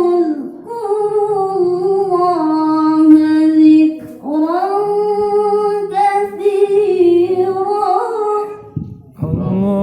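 Female Quran reciter (qoriah) chanting in the melodic tilawah style: long held, ornamented notes in two drawn-out phrases, with a short breath about four seconds in.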